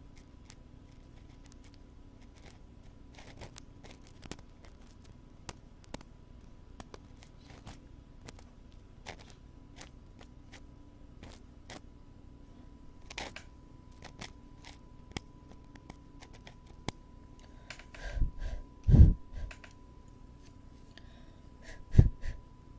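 A wooden ear pick scraping and clicking in a binaural microphone's ear, with small sharp scratches about once a second. It is broken near the end by a few heavy, close thumps of the microphone's ear being handled.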